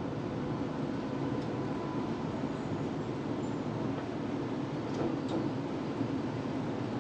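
Melbourne tram running along its rails, heard from inside the car: a steady rumble of wheels and motors, with two light clicks about five seconds in.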